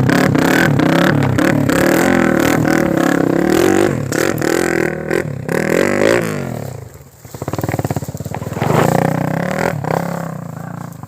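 Single-cylinder four-stroke trail motorcycle engine revving, its pitch rising and falling repeatedly, then easing off about seven seconds in and picking up again.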